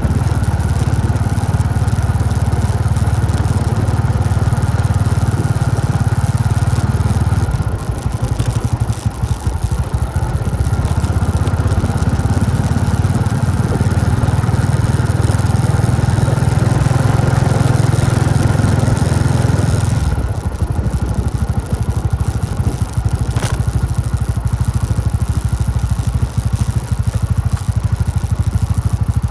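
Motorbike engine running steadily while riding, with road and wind noise; the low engine rumble drops off about twenty seconds in.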